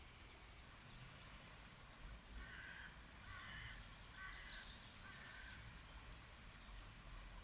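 A bird calling about four times in a row, short calls a little under a second apart, faint over a quiet background with a low rumble.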